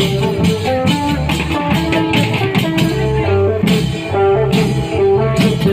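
Thai long-drum (klong yao) band music: drums keep a steady beat under a quick melody of short, plucked notes.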